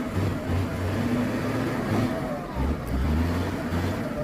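Truck diesel engine revving unevenly, its pitch rising and falling as it labours.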